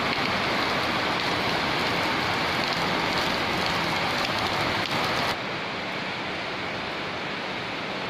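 Heavy rain falling as a steady hiss. About five seconds in it suddenly gets quieter and duller.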